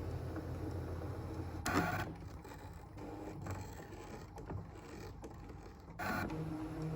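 Brother ScanNCut SDX1500 cutting machine running as it cuts felt, its motors giving a steady hum. There is a short louder rush about two seconds in and another near the end, with a quieter stretch of faint ticks between them.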